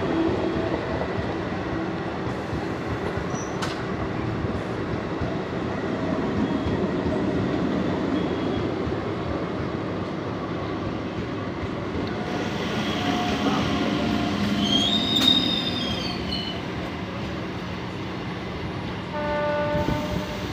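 Indian suburban electric multiple-unit (EMU) local trains rolling through a station, with a continuous rumble of wheels on rail. A high wheel squeal rises in the middle, and a short two-tone electric horn sounds near the end.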